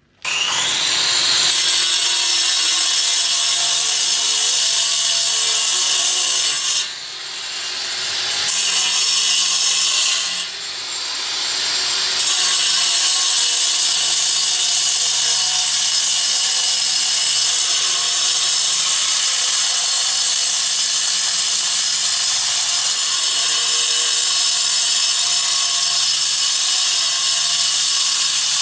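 Handheld power tool spinning up with a rising whine, then running loud and steady under load, easing off briefly twice.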